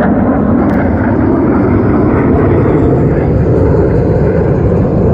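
Fighter jet engines roaring, loud and steady.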